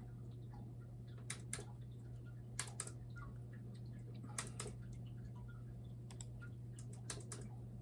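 A few scattered sharp clicks at a computer's keys and buttons, mostly in pairs a fraction of a second apart, over a steady low hum.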